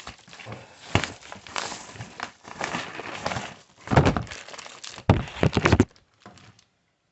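Rustling and irregular knocks from handling parts and packaging, with the heaviest thuds about four and five seconds in; the noise stops about six seconds in.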